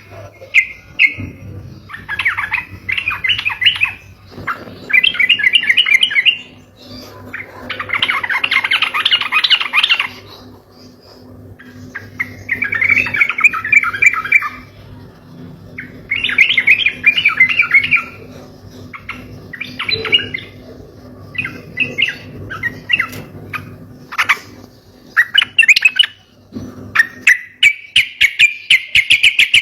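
Yellow-vented bulbul (trucuk) singing in rapid chattering phrases: bursts of quick notes a second or two long, separated by short pauses, then a long unbroken run of rapid notes near the end. A faint steady low hum lies underneath.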